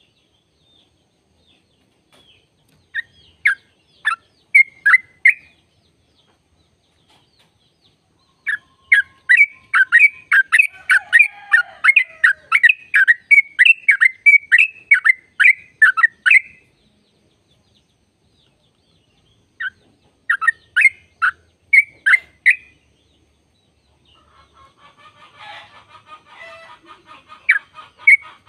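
Yellow-vented bulbul (trucukan) calling with sharp chirps: a few short bursts, then a long rapid run of about three notes a second lasting some eight seconds, the drawn-out 'ropel' series. After a pause come more short bursts, and near the end a fainter chattering sits under renewed chirps.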